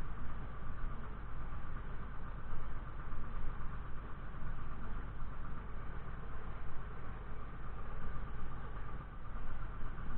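Fiatagri 130-90 tractor's diesel engine running steadily, a constant low rumble with a steady mid-pitched drone on top.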